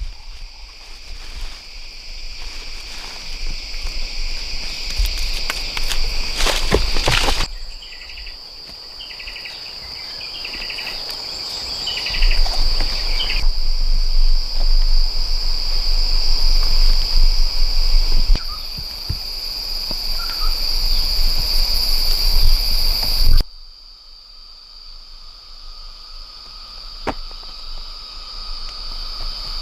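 Rainforest insects, crickets or cicadas, keep up a steady, high-pitched, continuous drone. Scattered knocks and handling noise sit over it, and the background level jumps at several points.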